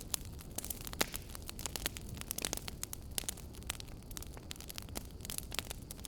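Wood fire in a fireplace crackling, with many irregular sharp pops and snaps over a steady low hiss.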